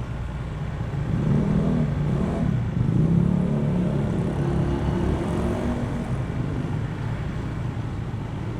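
Honda ADV160 scooter's single-cylinder engine running while being ridden, picking up speed about a second in and then settling to a steady cruise, with road and wind noise.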